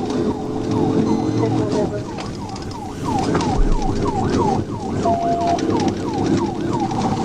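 Police car siren in fast yelp mode, a quick falling sweep repeating about three times a second, over the pursuit car's engine running hard.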